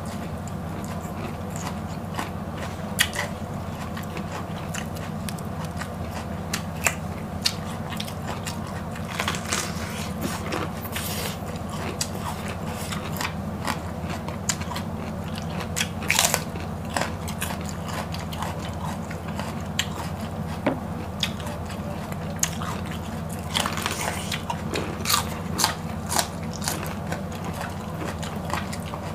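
Close-miked biting, crunching and chewing of leafy green vegetables, with scattered sharp crisp clicks and wet crackles over a steady low hum.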